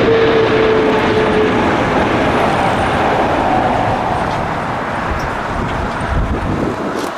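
Jet engines of a Boeing 777-300 on final approach, a loud steady roar passing close by, with an engine tone that slowly drops in pitch during the first second or two. Wind buffets the microphone.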